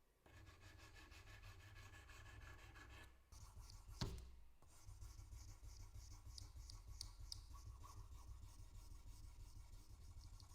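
Faint hand rubbing and scratching on a wristwatch case, with a single sharp click about four seconds in. Short scratching strokes repeat through the second half.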